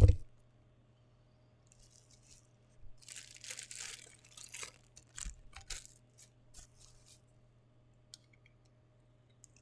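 Packaging being opened: plastic or paper crinkling and tearing in short spells starting about two seconds in, followed by a few light clicks and taps.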